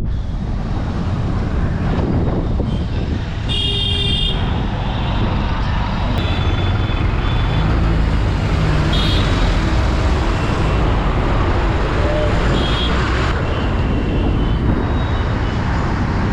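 Dense city traffic heard from a moving motorbike: steady wind and road rumble, with vehicle horns honking several times, loudest about four seconds in.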